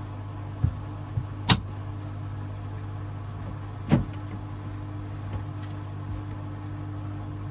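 Hoover DXOA610AHFN-80 washing machine running, its motor humming steadily, with four sharp knocks in the first half, the loudest about a second and a half and four seconds in.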